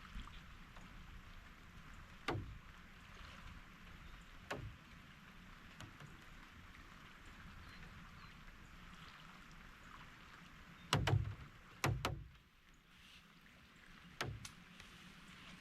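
Faint steady outdoor background rumble and hiss, broken by a handful of sharp knocks, the loudest two close together about eleven and twelve seconds in.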